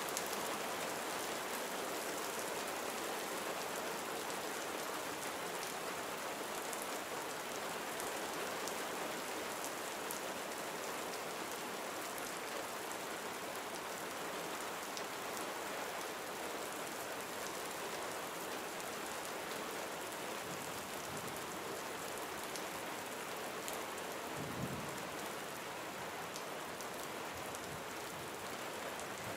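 Gentle rain falling steadily, with the fine patter of single drops on surfaces. There is a short low thud about two-thirds of the way through.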